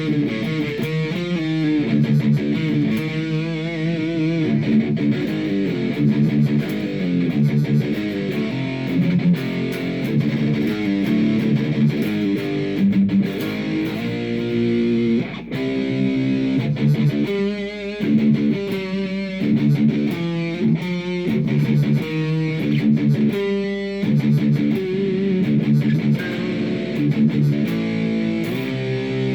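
Guitar playing a continuous run of notes, with a wavering vibrato note about four seconds in and choppy, stop-start notes between about seventeen and twenty-four seconds in.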